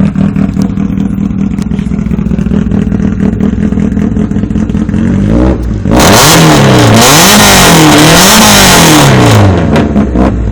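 Nissan 350Z's 3.5-litre V6 idling, then revved hard about five seconds in. The revs climb and fall several times, very loud, before dropping back to idle near the end.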